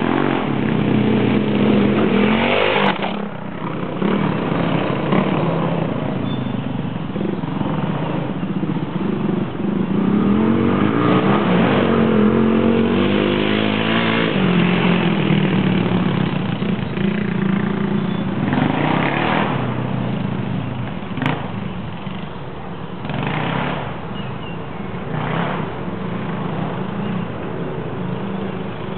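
Single-cylinder dual-sport motorcycle engines running and revving up and down while riding laps, with surges of rushing noise as they accelerate. Two sharp clicks, about 3 seconds and 21 seconds in.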